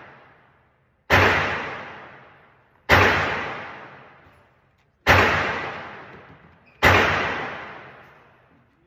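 Four single gunshots about two seconds apart, each a sharp crack followed by a long fading echo.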